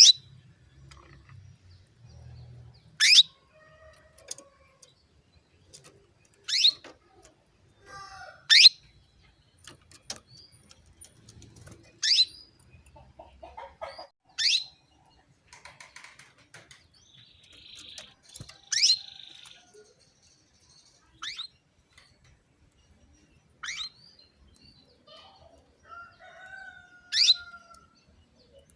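Female domestic canary calling to males: about ten short, sharp calls, each a quick downward sweep in pitch, repeated every two to four seconds, with fainter chirps in between.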